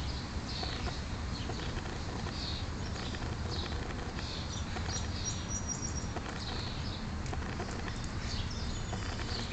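Small birds chirping over and over in the background, over a steady low rumble.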